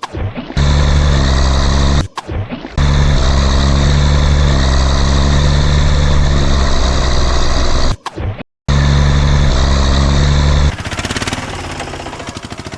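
Steady tractor engine running, breaking off briefly about two seconds in and again about eight seconds in. Near the end it gives way to a quieter, fast rattling buzz.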